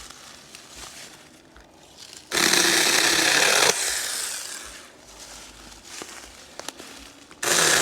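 Saker Mini 4-inch 20-volt cordless electric chainsaw running in a short burst of about a second and a half, then trailing off. It starts up again near the end.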